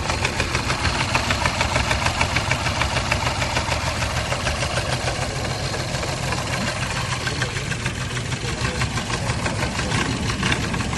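Car engine idling with a rapid, even knocking, the sign of an engine ruined after being driven 1,000 km.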